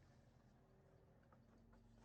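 Near silence: a faint steady low hum with a few very faint ticks.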